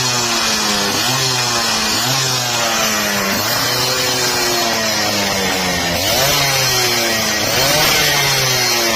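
Two-stroke motorcycle engine with an aftermarket racing exhaust, its throttle blipped again and again. Each blip makes the pitch jump up sharply and then sink back, about once a second.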